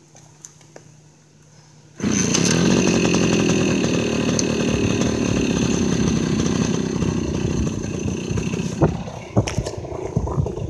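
Suzuki MT50 Trailhopper's small two-stroke single-cylinder engine on a cold start: a few light clicks, then about two seconds in it catches suddenly and runs at a steady high buzz. Near the end the revs drop a little and the running turns uneven as it begins to settle.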